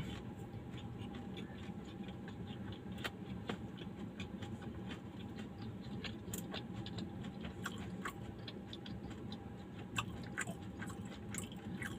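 A person chewing a fried modakam, a sweet fritter: scattered small, irregular mouth clicks and smacks over a faint steady hum.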